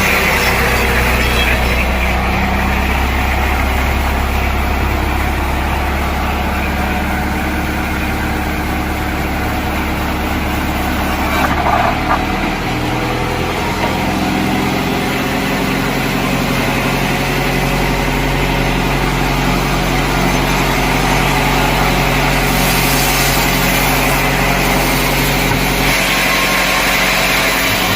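An engine running steadily among sawmill machinery, its pitch shifting about twelve seconds in.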